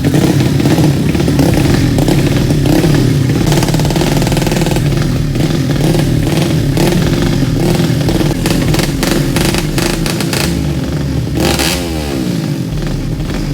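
Racing motorcycle engines running loudly and revving, with one engine's pitch sweeping down sharply near the end.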